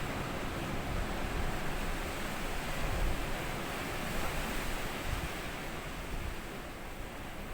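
Small sea waves washing onto a sandy beach, a steady rushing hiss that swells a little about three seconds in and eases off near the end, with some wind on the microphone.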